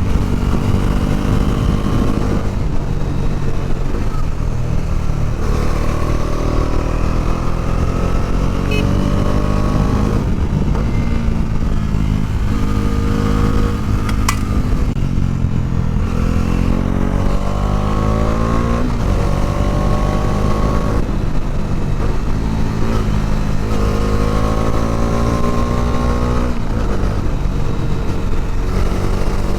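Bajaj Dominar 400's single-cylinder engine under way, its revs rising again and again as the rider accelerates, then dropping back between pulls. One sharp click is heard about halfway through.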